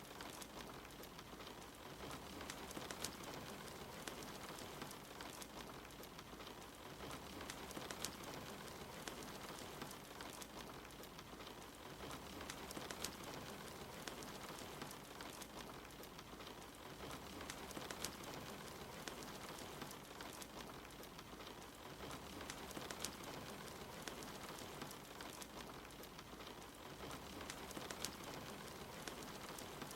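Steady patter of rain mixed with the crackling and sharp pops of a wood fire in a fireplace, soft throughout.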